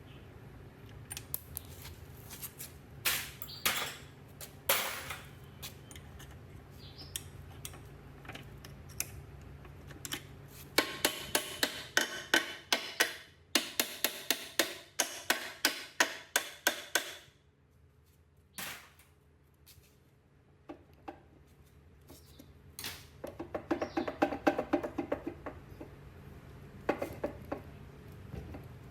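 Hand tool striking metal parts of an old blade grinder: scattered knocks, then a fast run of ringing metallic strikes at about three a second for several seconds, and later a quicker patter of taps.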